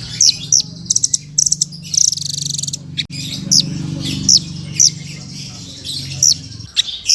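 Songbird chirping: short, high, downward-sweeping notes repeated at uneven intervals, with a few quick rattling runs. A steady low hum runs underneath and stops shortly before the end.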